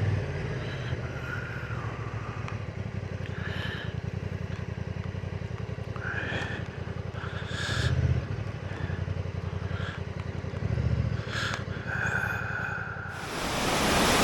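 Honda NT1100's parallel-twin engine running at low revs with an even low pulse, swelling briefly under throttle about eight and eleven seconds in. Near the end the steady rush of a large waterfall rises and takes over, a noise loud enough to draw "Wow, what a noise."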